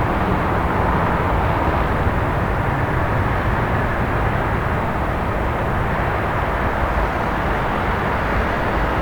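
Steady, even background noise of city traffic, with no single vehicle or event standing out.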